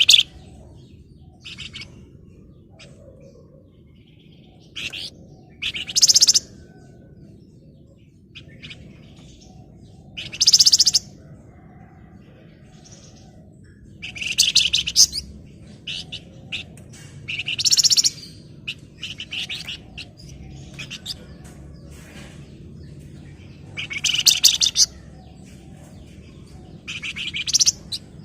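Flamboyan (wergan Jawa) songbird giving rapid, dense, high-pitched trilling chatters in bursts of about a second, repeated every few seconds: the excited calling of a male in breeding condition challenging a rival.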